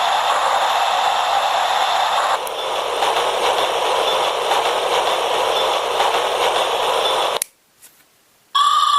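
A railway ambience sound effect played back from a TOMYTEC Geocolle sound unit: a steady rushing noise that shifts slightly about two seconds in and cuts off suddenly near the end, followed after a short gap by the start of a pitched electronic tone.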